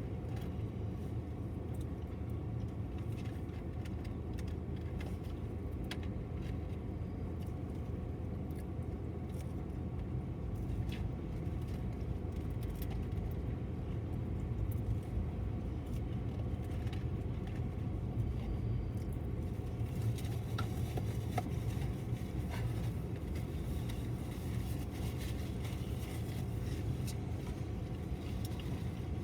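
BNSF intermodal freight train cars rolling past: a steady low rumble of wheels on rail, with scattered light metallic clicks and clinks.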